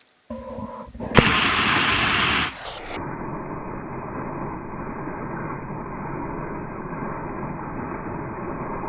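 Rushing water of a small waterfall. It starts as a loud full hiss after a click about a second in. From about three seconds in it becomes a steady, deeper and duller rush, the water's sound slowed down with the slow-motion footage.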